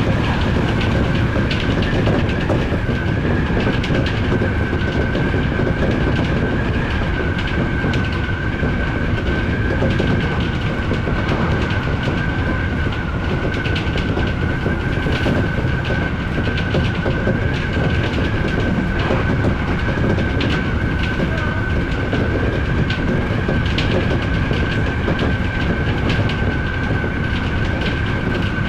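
Odakyu electric commuter train running at speed: a steady rumble of wheels on rail with repeated clicks as the wheels cross rail joints, over a steady high whine.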